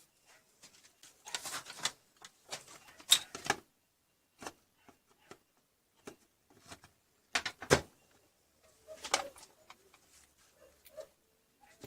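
Irregular clicks, taps and knocks, as of objects being handled, coming in short clusters, with a few faint short squeaks between them.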